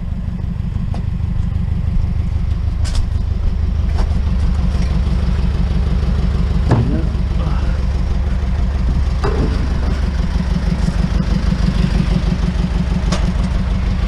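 Vehicle engine idling with a steady low rumble, with a handful of scattered sharp knocks.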